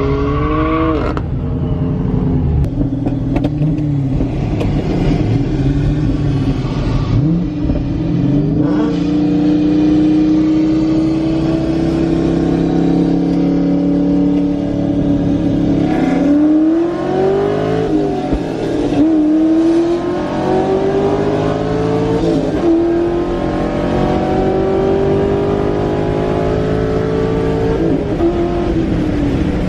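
A loud muscle-car engine running and revving, its pitch climbing and dropping several times as it accelerates.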